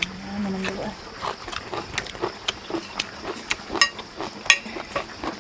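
Irregular light clicks and taps, about two or three a second, of food and dishware being handled at a meal, with a brief low voice in the first second.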